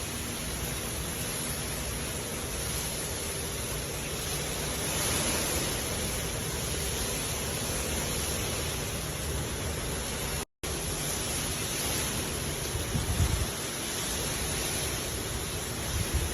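Hard rain falling steadily, an even hiss. The sound drops out for a split second about ten seconds in, and brief low rumbles come through twice near the end.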